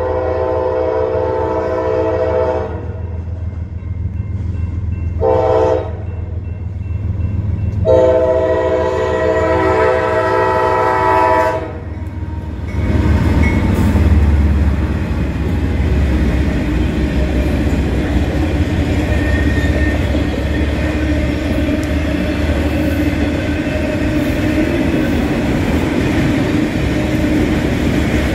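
Freight train's diesel locomotive horn blowing for a grade crossing: a long blast, a short one, then another long one. Right after it the lead locomotives pass close by, and the freight cars roll past with a steady rumble of wheels on rail.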